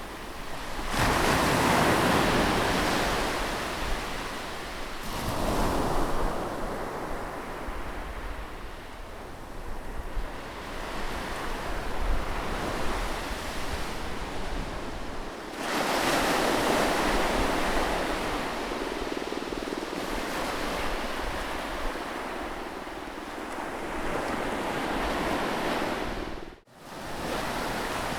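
Ocean waves breaking on a beach: a continuous wash of surf that swells into bigger breaking waves about a second in, around five seconds and around fifteen seconds, then recedes. It cuts out for an instant near the end.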